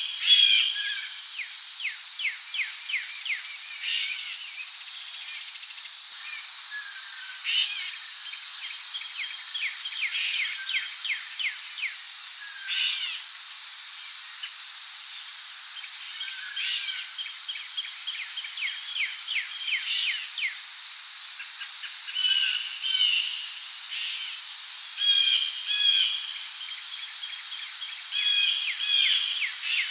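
Rainforest ambience: a steady high-pitched drone of crickets and other insects, with bird calls and chirps and quick trains of ticking calls scattered throughout.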